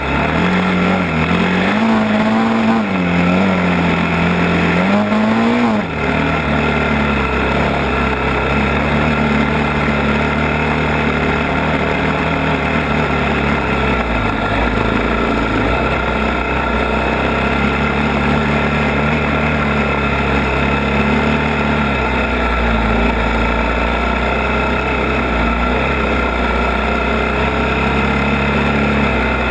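ATV engine running on a trail ride. Its pitch rises and falls a few times in the first six seconds as the throttle is worked, then holds mostly steady.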